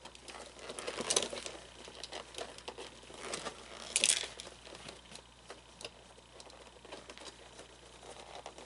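Cloth rustling with small clicks and knocks as tight trousers are tugged up over an animatronic figure. The louder rustles come about a second in and around four seconds in.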